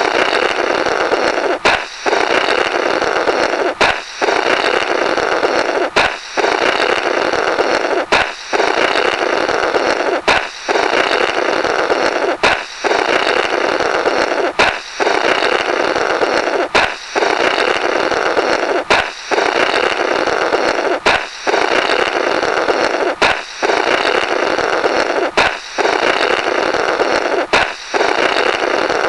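Comic 'Blorrrt' balloon sound effect, repeated about every two seconds: a balloon pop followed by a rasping blow through the burst rubber.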